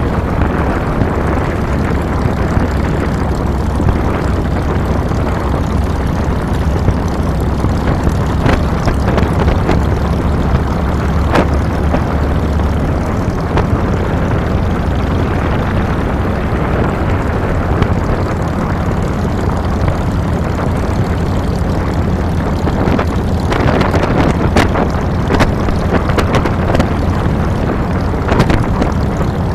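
Harley-Davidson Fat Boy's air-cooled Twin Cam V-twin running while riding, with steady wind and road noise on the microphone. The engine note shifts lower about thirteen seconds in, and there are a few short clicks near the end.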